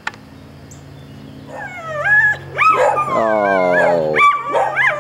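A pet animal's high, whining cries, starting about a second and a half in: several short rising-and-falling calls, then one long whine that falls in pitch, then a few more short cries near the end.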